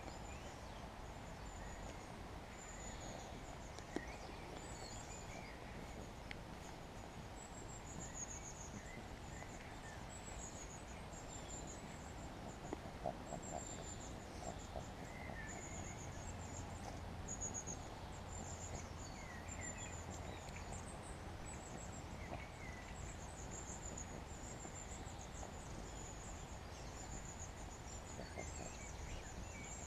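Small songbirds chirping, a stream of quick high-pitched calls, over a steady low background hum.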